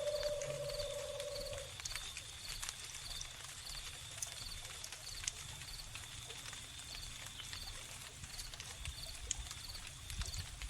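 Crickets chirping in a steady, regular rhythm over a crackling wood fire with scattered sharp pops. A long, steady-pitched animal call in the background stops under two seconds in.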